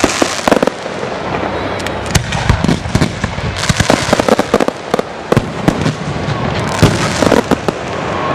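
A fireworks display: shell bursts and crackling reports go off in quick clusters of sharp bangs, over a steady background hiss.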